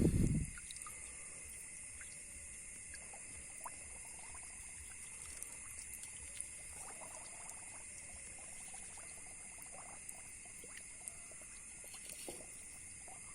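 Steady high-pitched drone of night insects, with faint trickling and small splashes of water and a few light ticks. A brief loud low thump comes right at the start.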